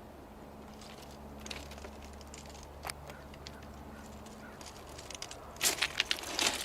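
A low steady hum with a couple of faint clicks, then, about five and a half seconds in, loud close-up rustling and crinkling that comes in quick bursts.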